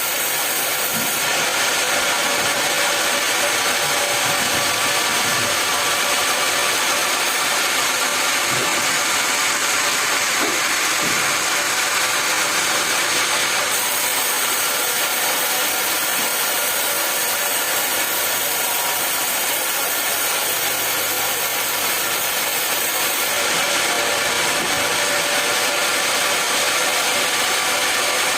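Sawmill running steadily with its saw cutting through a log, making a continuous even noise.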